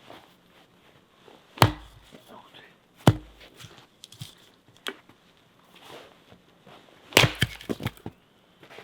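Sharp knocks of wood being struck or handled during log cabin construction: one loud knock about a second and a half in, another about a second and a half later, then a quick rattle of several knocks near the end.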